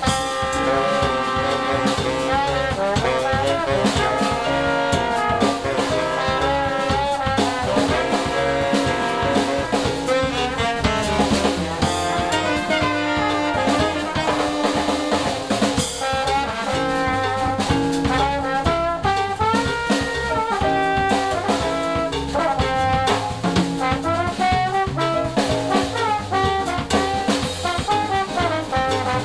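Jazz band playing live, with brass carrying moving melody lines over a drum kit.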